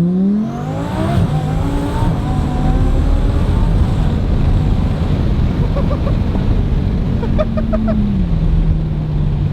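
Twin-turbo Audi R8 V10 accelerating hard under full throttle, its engine note climbing steadily for the first few seconds, then running loud and steady. Near the end the pitch drops a step and holds as the driver eases off.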